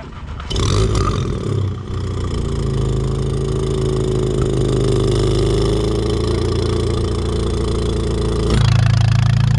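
Audi S3 8V's turbocharged four-cylinder engine starting about half a second in, flaring briefly, then settling to a steady idle through its exhaust with a bonnet cut-out. Near the end the exhaust note changes abruptly, getting louder and deeper.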